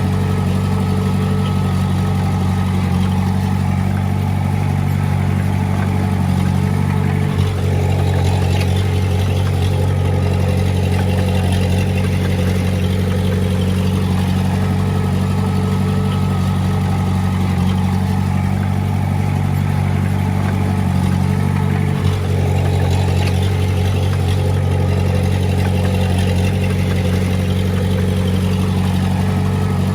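Komatsu D20A bulldozer's diesel engine running steadily at working revs. It falters briefly twice, about a quarter of the way through and again about two-thirds through.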